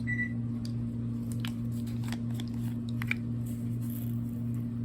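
A few light clicks and taps of measuring spoons and spice containers being handled while salt is measured out, over a steady low hum.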